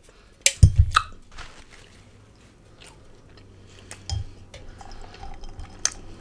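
Close-miked wet chewing and mouth clicks of a person eating a chicken gyro wrap. There are several sharp smacks with a low thump about half a second to a second in, then scattered soft clicks, another low thump around four seconds, and one sharp click near the end.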